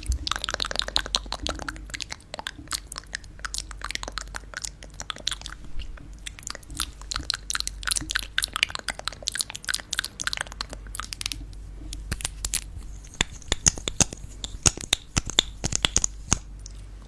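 Close-miked ASMR trigger sound: dense, crisp crackling and clicking that keeps on irregularly throughout.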